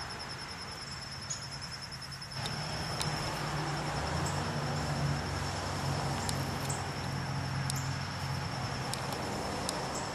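Insects trilling steadily in a high, pulsing tone. About two and a half seconds in, a low hum swells up underneath and stays, with a few light clicks scattered through.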